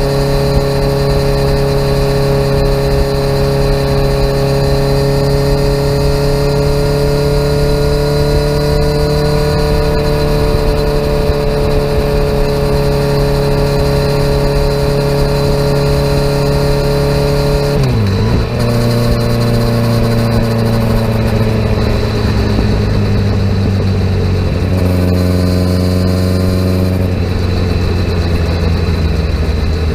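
2017 Kawasaki Z900 inline-four engine through a CS Escapamentos full exhaust, running under way at steady revs that rise slightly. About eighteen seconds in the note dips sharply and the engine settles at lower revs, stepping down again a few seconds later.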